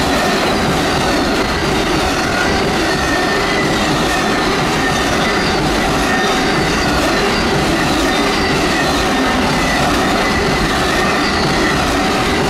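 Amtrak Auto Train autorack cars rolling past at speed: a steady, loud rush of steel wheels on rail, with thin high whining tones from the wheels riding over it.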